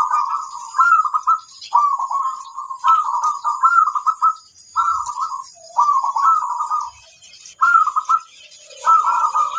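Zebra dove (perkutut) cooing: short warbling, trilling coos repeated one after another with brief pauses between them.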